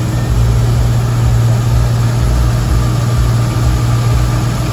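Ford V8 engine of an early-1970s Mustang idling steadily: a loud, even low rumble.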